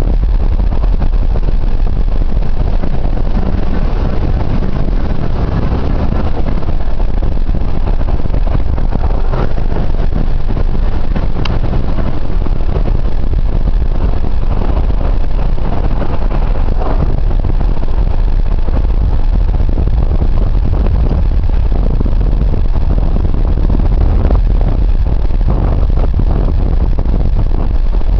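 A car driving, heard as a loud, steady low rumble of engine and road noise with wind noise mixed in.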